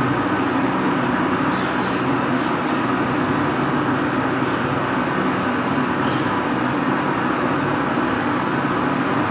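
Steady flame of a brazing torch running without a break, as the refrigerator's copper suction pipe is brazed.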